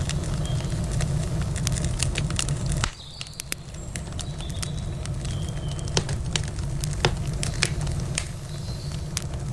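Campfire crackling and popping with many sharp irregular snaps. A low rumble underneath cuts out about three seconds in, and a few faint high chirps sound in the middle.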